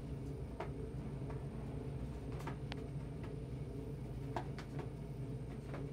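A handful of faint, irregular ticks and taps, about eight in all, over a steady low room hum.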